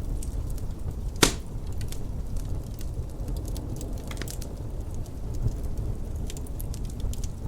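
Wood fire crackling in a fireplace, with scattered small clicks and one loud sharp pop about a second in, over a steady low rumble of wind.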